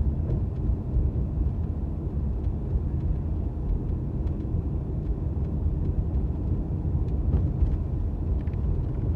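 Steady low rumble of a car driving, heard from inside the cabin: road and engine noise with a few faint ticks.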